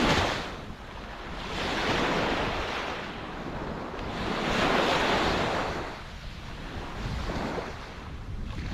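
Ocean surf: waves breaking and washing up the shore, the hiss swelling and falling back in slow surges a couple of seconds apart.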